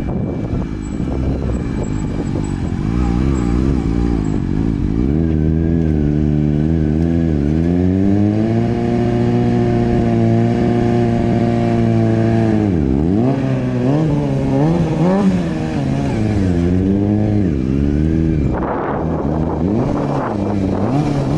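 Kawasaki motorcycle engine running under changing throttle, its revs rising and falling repeatedly. It holds steady revs for a few seconds in the middle, drops sharply once and picks up again.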